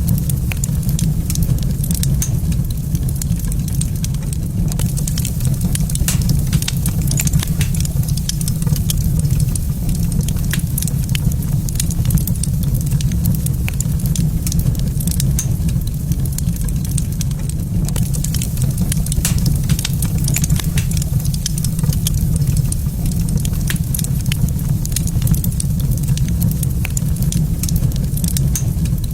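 Wood fire crackling in a fireplace: many small, irregular pops over a steady low rumble.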